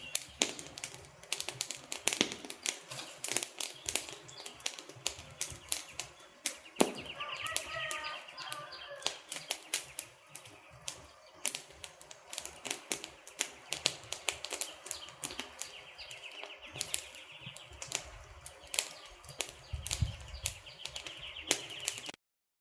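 Burning wood logs crackling, with irregular sharp pops and snaps over a low hiss; a softer hiss with a faint wavering whistle rises briefly about seven seconds in. The sound stops abruptly just before the end.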